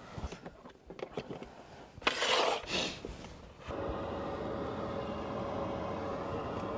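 A few light clicks and a short rustling burst, then from about four seconds in a steady hum with a faint constant whine: a diesel parking heater running in an SUV's cabin.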